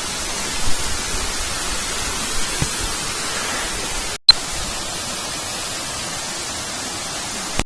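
Steady rushing hiss of a waterfall's falling water. The sound drops out for an instant about four seconds in, then carries on unchanged.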